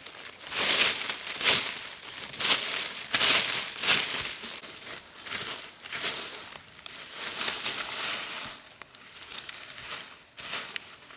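Irregular rustling and crackling: a run of short, noisy scrapes and crunches, busiest in the first few seconds and thinning out later.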